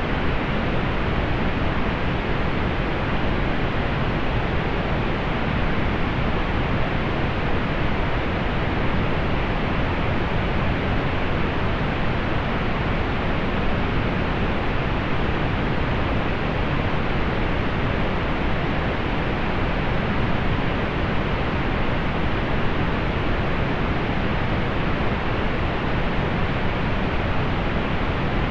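Steady pink noise: an even, unchanging hiss, fuller in the bass and muted in the treble.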